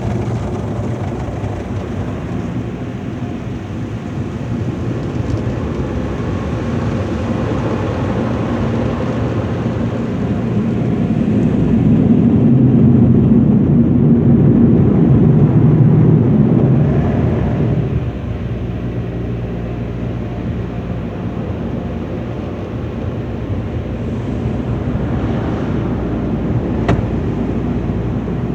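Automatic car wash tunnel equipment working over a truck, heard from inside the cabin: a steady mechanical rumble that swells louder for several seconds near the middle, then eases back, with one sharp tick near the end.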